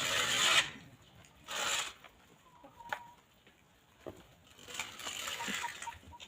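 Free-range hens clucking in three short bursts: one at the start, one about a second and a half in, and a longer one near the end.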